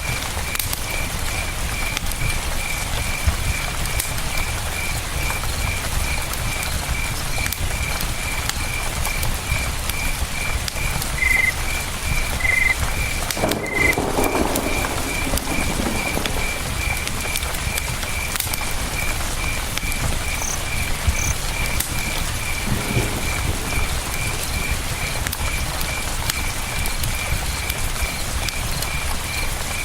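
Campfire crackling with scattered sharp pops over the steady rush of a river, while a cricket chirps regularly at one pitch, two or three chirps a second.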